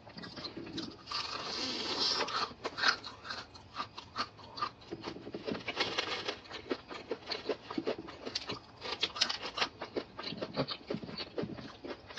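Close-up chewing of crispy double-fried chicken: a steady run of sharp, irregular crunches and crackles with wet mouth sounds, busier in a couple of stretches.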